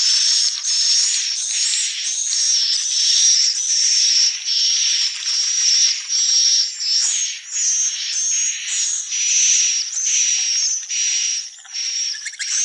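Swiftlets calling: a continuous stream of short, buzzy, high-pitched chirps, about two a second.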